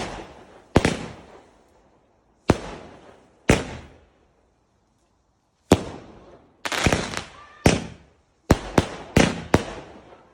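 Fireworks going off: about ten sharp bangs at irregular intervals, each trailing off in a rolling echo. The bangs come faster in the second half.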